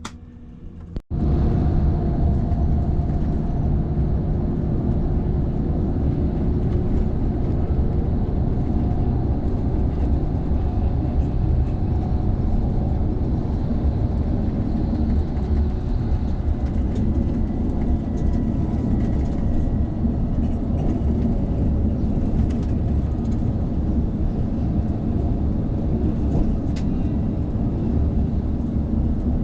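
A vehicle travelling at speed: a loud, steady low rumble with a few faint steady tones over it. It starts abruptly about a second in and holds unchanged until near the end.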